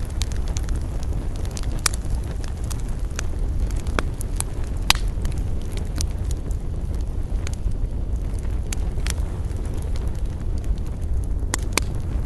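Campfire burning: a steady low rumble of flames with sharp crackles and pops from the burning wood, coming irregularly a few seconds apart.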